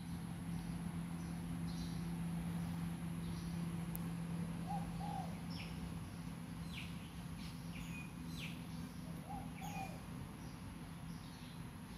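Birds calling outdoors. A short, lower two-note call comes twice, about five seconds in and again near the end, with thin high chirps in between. A steady low hum runs underneath.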